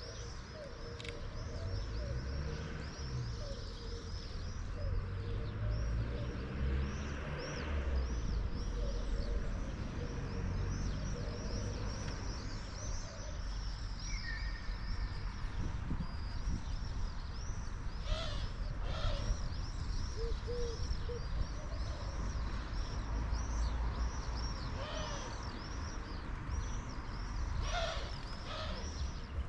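Many small birds chirping without pause in a morning chorus, with a few louder runs of calls in the second half, over a low steady rumble.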